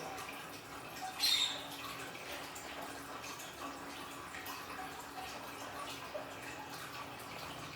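Water trickling and dripping from a small aquarium waterfall, with a louder splash a little over a second in. A faint steady low hum sits underneath.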